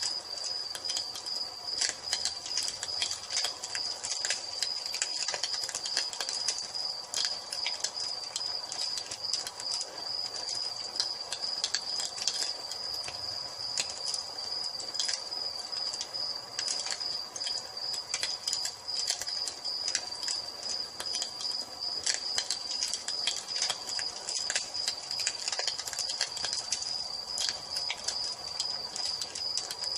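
Wood fire crackling with frequent irregular pops and snaps, over a continuous high, steady cricket trill.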